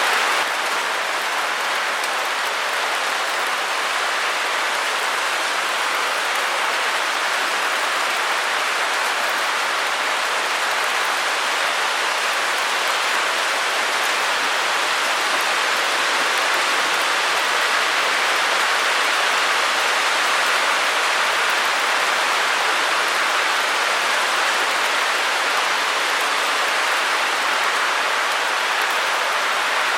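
Steady, unbroken white-noise hiss with little deep sound in it, held at an even level throughout.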